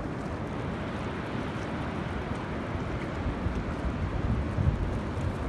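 Wind buffeting the microphone over the steady rush of ocean surf, with stronger gusts about four to five seconds in.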